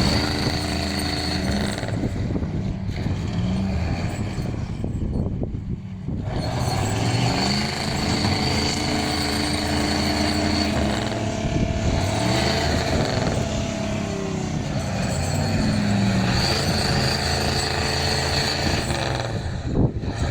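Big diesel truck engine running, its speed rising and falling several times.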